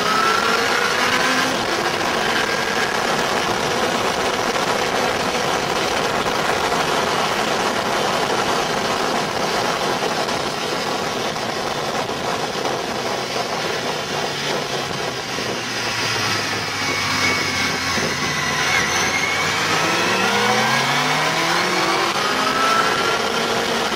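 Motorcycle engine running and revving, its pitch climbing near the start and again in several rising sweeps toward the end, over a steady loud rush of noise.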